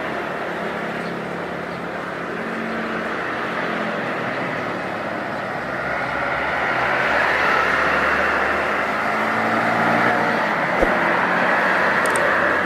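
Jet airliner on its takeoff run at full power, a broad rushing engine noise that grows louder through the second half.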